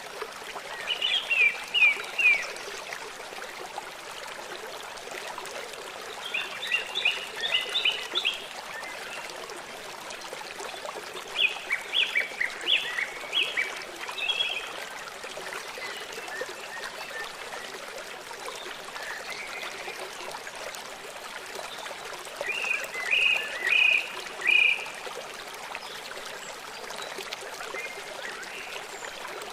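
Steady rushing of flowing water, over which a songbird sings four short phrases of quick repeated notes, each about a second or two long and spaced several seconds apart.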